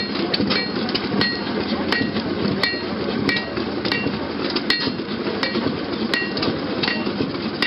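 Blacksmith's hammer striking hot steel on an anvil at an even pace, about one ringing strike every two-thirds of a second, roughly a dozen in all. A steady low rumble of engines runs underneath.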